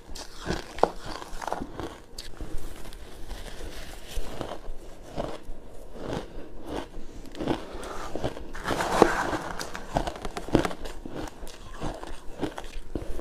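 Close-miked biting and chewing of crunchy frozen pink ice: a steady run of sharp, irregular cracks and crunches, a few louder snaps among them.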